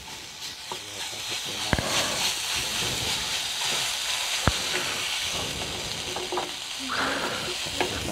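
Mashed boiled tapioca and onions sizzling in a hot pan while being stirred and pressed with a spatula, with a couple of sharp taps of the spatula against the pan.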